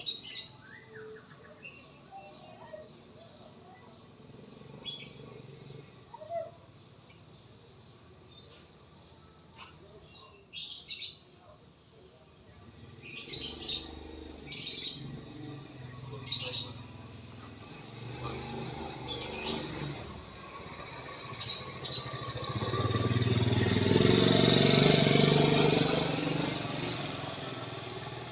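Songbirds chirping and calling in short notes throughout. About two-thirds of the way through, a motorbike passes, its engine noise swelling to the loudest point and then fading.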